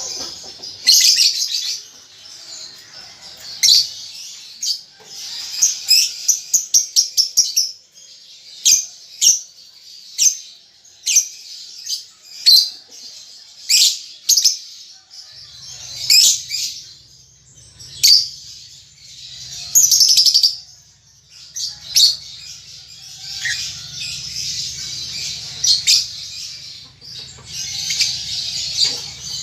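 Young lovebird chirping in short, sharp notes, practising its ticking (ngetik) and chattering (ngekek) calls, with a quick run of ticks about a quarter of the way in and several longer bursts of chatter.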